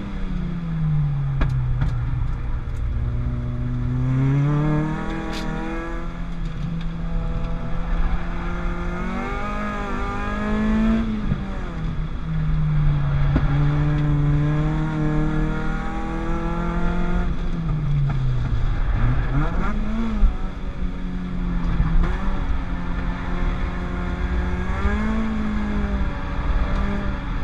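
Peugeot 205 GTI with a 206 RC four-cylinder 16-valve engine, driven hard on track. The engine note climbs through the revs, drops sharply at each gear change or braking point and climbs again, repeating through the lap.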